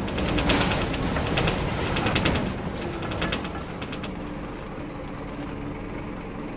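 Scania K230UB Wright Solar bus running, with a rapid rattling that dies away after about four seconds over the engine's low rumble. A steady hum sets in about halfway through.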